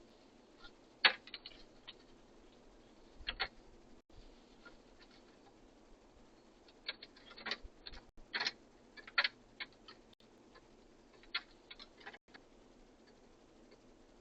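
Birds pecking and scratching at a bird feeder: irregular sharp taps and clicks, single or in short clusters, over a low hiss. The loudest tap comes about a second in.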